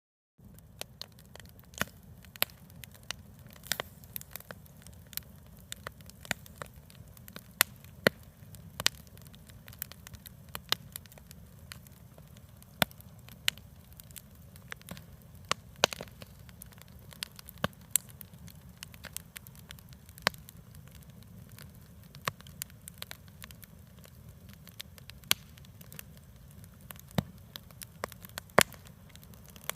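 Wood campfire crackling: irregular sharp pops and snaps, some much louder than others, over a steady low rumble.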